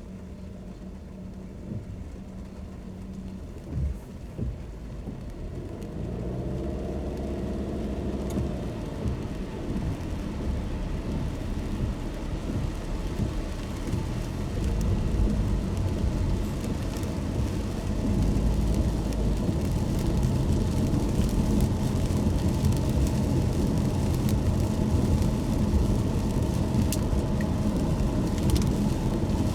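Car driving in the rain: tyre noise on a wet road and rain on the car, a steady rumble that grows louder from about six seconds in.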